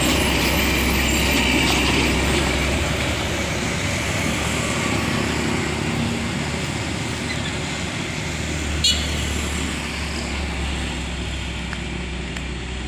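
Heavy diesel trucks in convoy on a road: engines running and tyres on the road, slowly fading. One short sharp click about nine seconds in.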